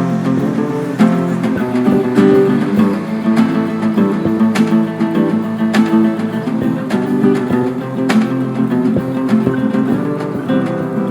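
Band playing an instrumental passage without vocals, led by strummed acoustic guitar with a steady rhythm of strokes.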